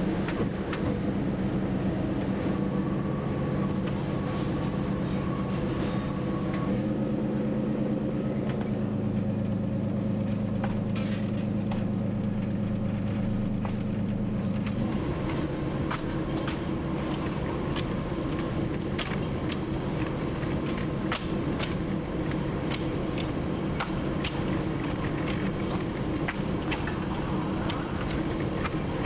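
TU7 narrow-gauge diesel locomotive's V12 diesel engine running while under way, heard from the cab, with sharp clicks from the wheels and track. The engine note steps up about a quarter of the way in and drops back about halfway through.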